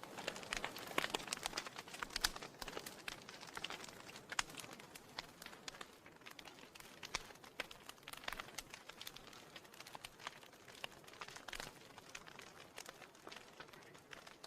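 Burning firewood crackling, with irregular sharp pops and snaps over a soft hiss; the pops come thickest in the first few seconds.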